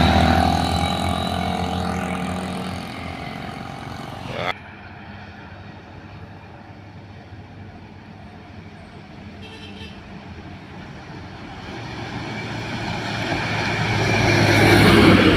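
Diesel truck engines pulling up a steep climb: one fades away over the first few seconds, the sound changes abruptly about four and a half seconds in, and another truck grows louder toward the end.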